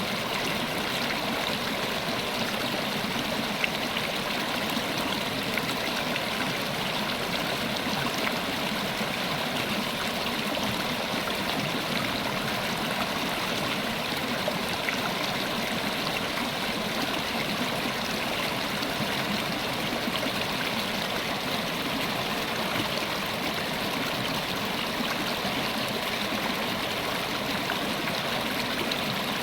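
River water flowing over rocks, a steady rushing and babbling with small splashes.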